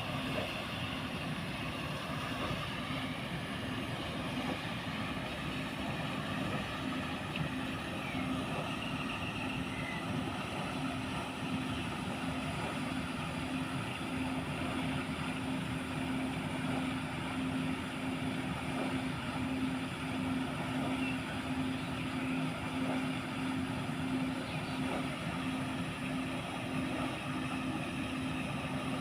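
Motor-driven water wheel aerator running: a steady machine hum at one pitch over continuous churning, splashing water.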